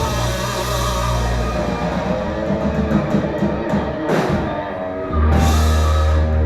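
Rock band playing live with electric guitar, bass and drum kit. A cymbal crash comes about four seconds in, and the song ends on a loud held chord from about five seconds in.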